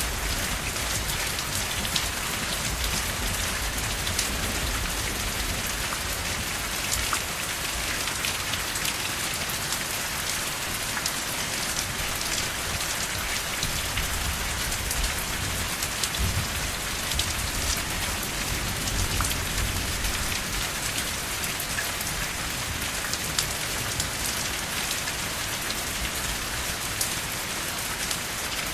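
Steady rain falling on a surface, a dense even hiss scattered with individual drop taps, over a soft low rumble.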